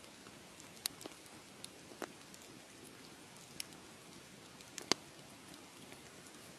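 Wood fire in a fireplace crackling: scattered sharp pops over a soft steady hiss, the loudest pop about five seconds in.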